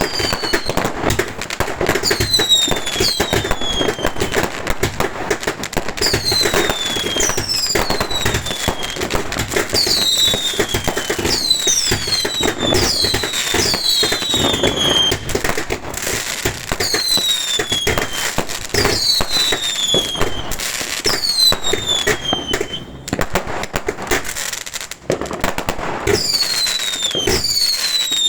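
Fireworks going off continuously in a loud barrage of bangs and crackles, with repeated falling whistles every second or two.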